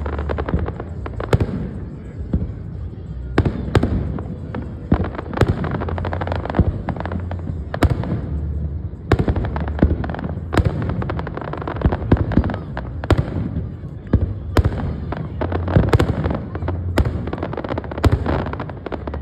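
Fireworks going off in a steady barrage: repeated sharp bangs at irregular intervals, with clusters of rapid crackling in between.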